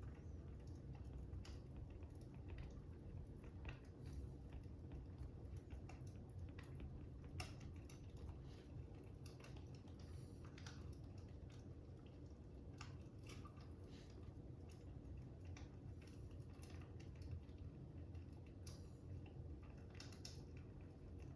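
Faint wood fire crackling: irregular small pops and snaps over a low steady rumble.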